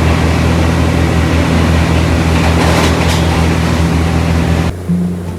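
Diesel train running, a loud steady low drone with a broad rumble over it. It cuts off abruptly near the end, and quieter background music comes in.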